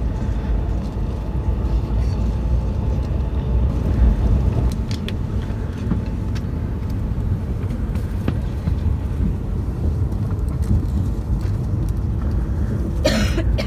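Steady low rumble of a train in motion, heard from inside the carriage, with a short noisy burst near the end.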